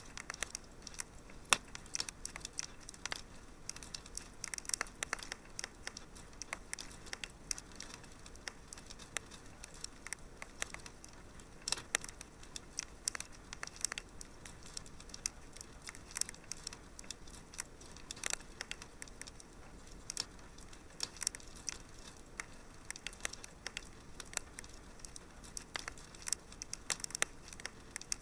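Wood fire burning in a fireplace, crackling with frequent irregular sharp pops and snaps over a steady low hiss.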